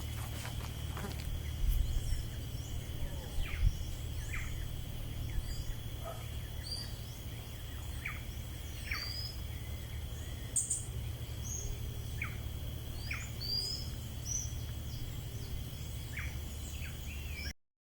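Outdoor ambience with scattered short bird chirps and quick down-sliding calls over a steady high-pitched drone and a constant low rumble. The sound cuts out briefly near the end.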